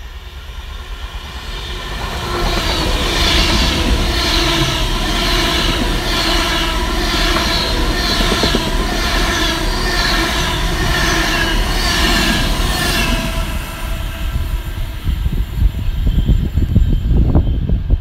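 A train on the line, a steady pitched whine with a regular pulsing, swelling about two seconds in and fading a little after halfway. A low rumble builds near the end.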